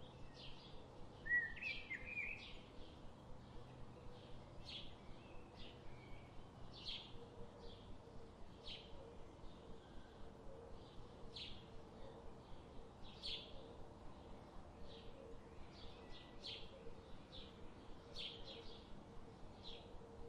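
Forest birds chirping: a steady series of short, high chirps, about one or two a second, with one louder, more varied call about a second and a half in.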